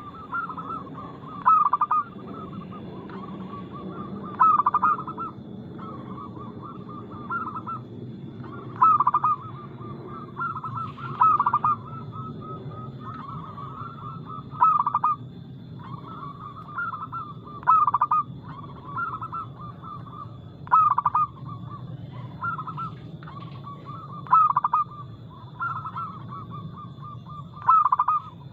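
Zebra dove (perkutut) cooing: rapid, staccato coo phrases repeated almost without pause, with a louder burst about every three seconds. A faint, steady high tone and a low hum run underneath.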